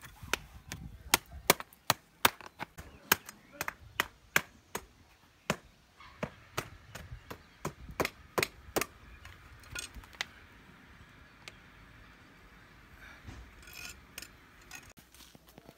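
A rapid series of sharp knocks, about two to three a second, thinning out to a few scattered ones after about nine seconds.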